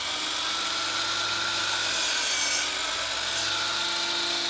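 An electric power tool's motor running at a steady speed while cutting wood.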